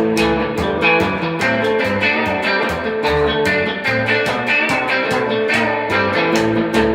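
Instrumental blues-boogie band music: electric guitar over bass guitar and a steady drum beat.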